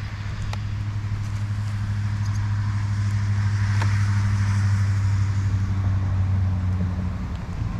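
Boat motor running with a steady low hum, fading out near the end.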